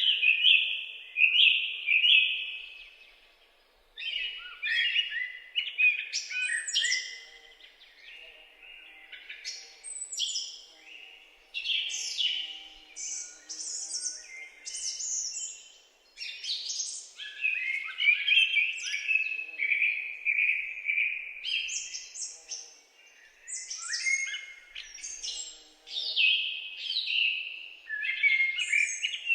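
Several birds singing and chirping at once, a busy chorus of overlapping high calls and trills that starts abruptly.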